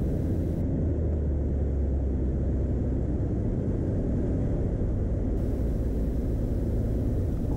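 Beechcraft Bonanza's piston engine and propeller heard inside the cabin, a steady low drone on final approach.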